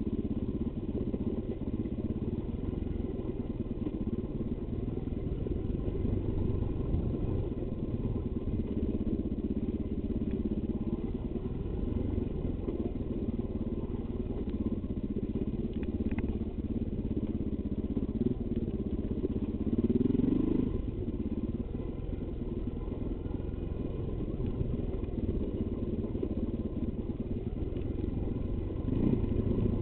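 Off-road motorcycle engine running at low revs on a rocky downhill descent. The revs rise briefly about two-thirds of the way through and again near the end.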